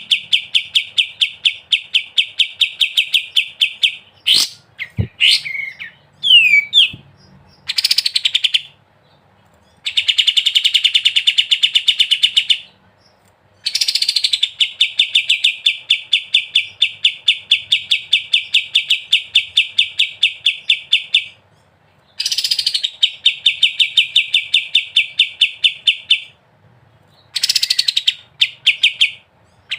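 Kapas tembak, a bulbul, singing its fast rattling 'ngebren' song: long runs of rapid, evenly repeated chattering notes, about five a second, each run lasting several seconds with short pauses between. A few short sweeping calls and sharp clicks break in between about four and seven seconds in.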